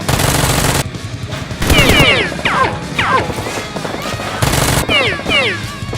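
Bursts of dubbed-in automatic gunfire sound effects, three of them (one at the start, one about two seconds in, one near the end), over background music with quick falling whistling tones.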